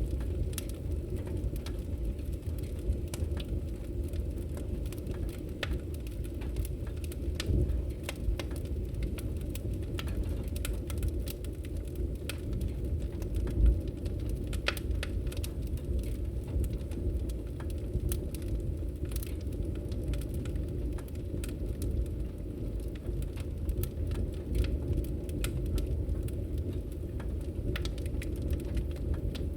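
Fire crackling in a fireplace: a steady low rumble of flames with scattered sharp pops and snaps, one louder pop about fourteen seconds in.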